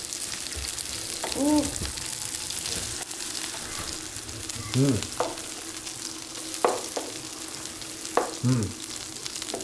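Battered jeon sizzling steadily in hot oil in a frying pan, with a few sharp taps partway through, like a utensil against the pan. A few brief voice sounds come in over the sizzle.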